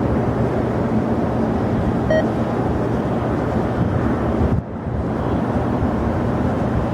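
Jet airliner engines running, a steady loud rumble. A short beep comes about two seconds in, and the sound drops out briefly just past the middle.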